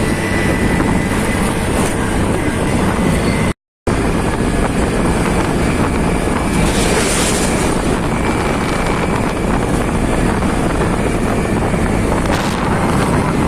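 Motorcycle riding along a road: steady engine and road noise with wind buffeting the microphone. The sound cuts out completely for a moment about four seconds in.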